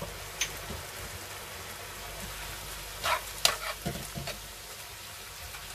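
Half-cooked beef sizzling as it browns in a pan with no water added. A few sharp knocks and scrapes of a utensil in the pan sound over it, the loudest about three and a half seconds in.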